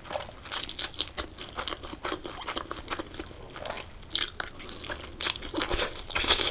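Close-miked eating of spicy instant noodles: wet chewing and mouth clicks, with several longer hissing bursts of slurping.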